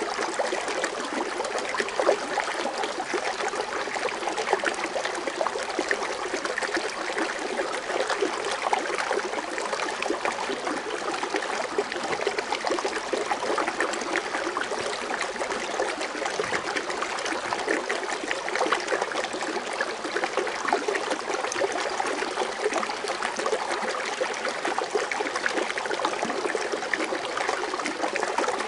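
Foaming water fountain splashing and trickling steadily, an even rush of falling water with small splashes.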